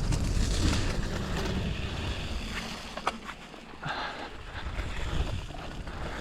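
Wind rushing over the microphone of a camera riding on a small single-speed bicycle as it rolls down a dirt trail, with tyre rumble and a few sharp rattles about three seconds in.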